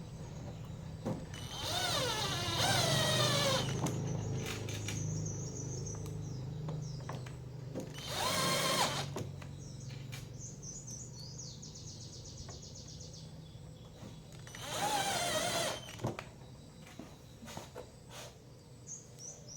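Power drill or electric screwdriver running in three short bursts, its pitch rising and falling, over a steady low hum.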